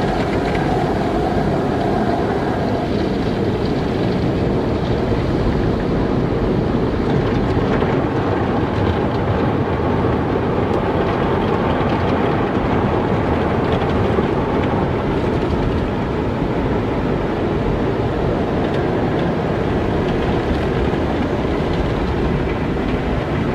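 Car wash running: a steady, loud rumble and rush of water and machinery with no breaks.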